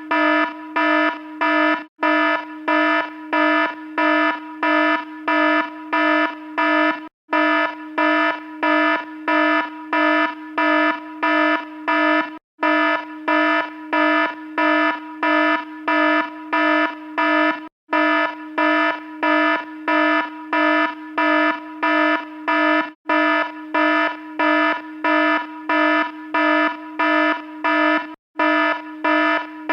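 An alarm sounding in short, even beeps, about two a second, in a steady repeating pattern.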